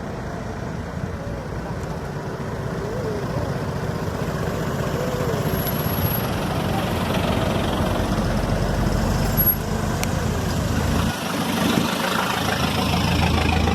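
A motor vehicle's engine running with a steady low rumble that grows gradually louder, as if the vehicle is drawing closer.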